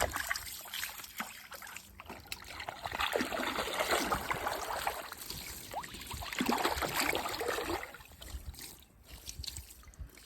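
A young goose swimming and splashing in water, with two louder bouts of splashing and sloshing, about three seconds in and again about six seconds in.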